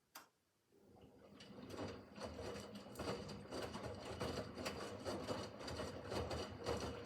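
Miele W5801 washing machine on its easy-care 30 °C programme: after a click, the drum starts turning again about a second in, building up to a steady motor hum with the wet laundry tumbling and knocking in the drum.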